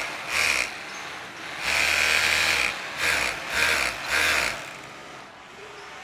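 Textile-factory machinery running in repeated bursts, five of them, each a fraction of a second to about a second long, with a steady mechanical background between them. The bursts stop a little after four seconds in, leaving only the quieter background running.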